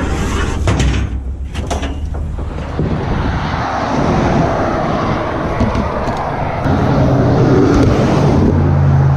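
A vehicle's engine running under steady road and wind noise, with a few sharp knocks and clatter in the first two seconds.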